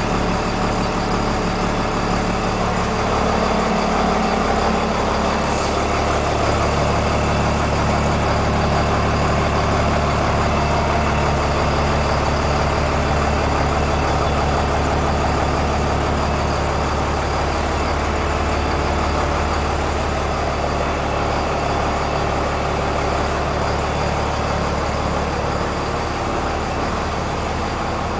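A bus's Cummins 5.9-litre turbo-diesel engine idling steadily.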